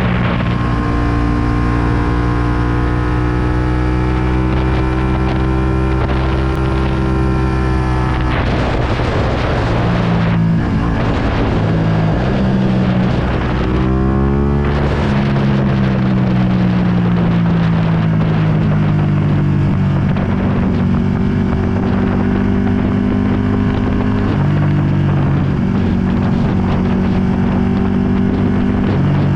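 Ducati Panigale V2's 955 cc L-twin engine through a full Akrapovic exhaust, running on the road under changing throttle. The pitch holds steady at first, climbs about halfway through, then slowly eases off. Wind noise on the microphone sits underneath.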